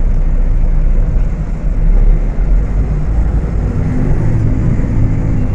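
Volksbus 18.280 OTS city bus diesel engine running under way: a steady low rumble, with a droning engine tone coming up clearly in the last couple of seconds.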